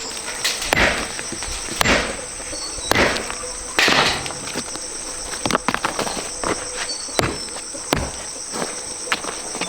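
A steady high-pitched insect chorus. Over it come four heavy strikes about a second apart, then lighter scattered knocks.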